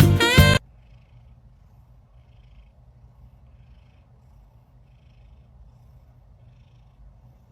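Jazz saxophone music cuts off suddenly under a second in, leaving a cat purring: a faint, steady low rumble in slow, even cycles.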